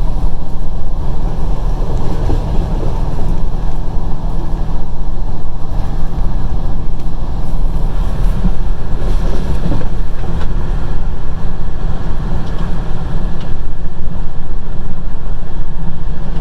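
Passenger train running along the line, heard from inside a carriage at the window: a loud, steady low rumble of wheels on rails.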